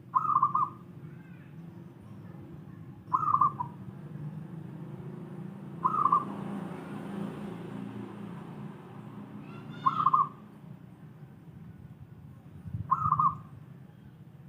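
Zebra dove (perkutut) cooing: five short coos a few seconds apart, over a steady low background hum.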